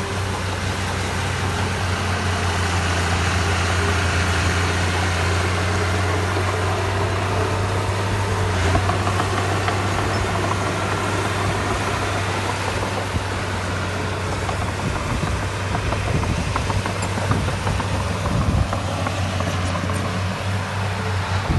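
Diesel engine of heavy earthmoving machinery running steadily with a deep, even hum, with a few knocks in the last few seconds.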